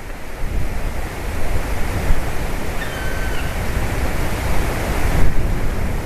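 Steady wind noise on the microphone with a heavy low rumble, and a faint single bird call about three seconds in.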